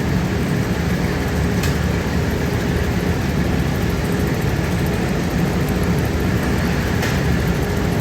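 Heavy workshop machinery running steadily with a dense low rumble and a faint steady hum, with a couple of faint clicks, one about two seconds in and one near the end.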